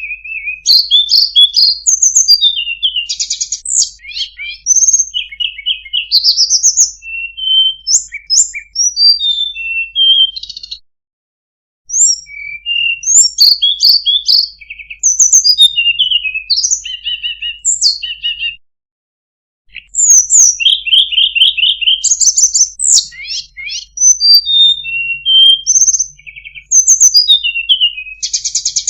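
Tledekan gunung singing: a long run of varied, fast, high-pitched phrases mixing chirps, quick trills and short whistled glides. The song breaks off in two brief silent gaps, about 11 and 19 seconds in.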